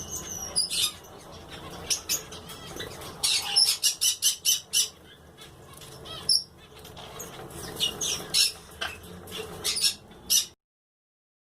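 Pet parrot making short, sharp squawks and chirps in clusters, with a quick run of calls a few seconds in; the sound cuts off abruptly near the end.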